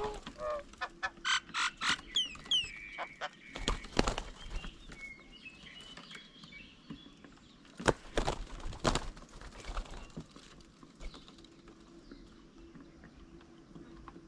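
Birds calling at a bird table: a run of short, sharp gliding calls in the first few seconds, then quieter calls, with a few sharp knocks or wing flaps as birds land and move on the table, the loudest about four and eight seconds in.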